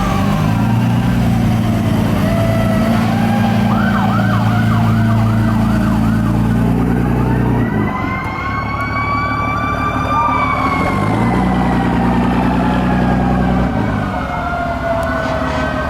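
Fire truck sirens sounding together: slow wails that rise and fall, with a fast yelp of about two sweeps a second in the first half. Under them, two long, deep air-horn blasts, the first lasting about seven seconds and the second starting about eleven seconds in.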